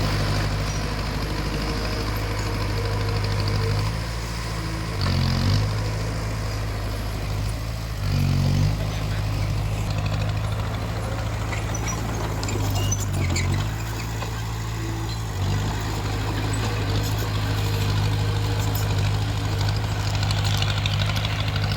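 Bulldozer diesel engine running steadily, revving up briefly about four times as it works.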